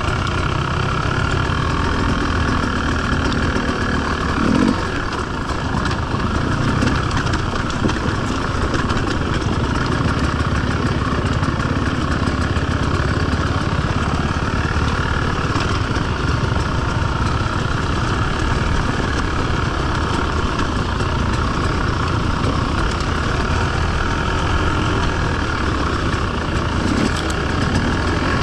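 Enduro dirt-bike engine running steadily, with a short thud about five seconds in.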